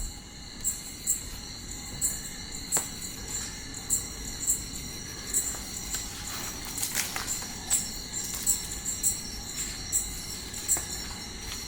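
A chorus of night insects chirping: a steady high buzz with short chirps repeating about twice a second.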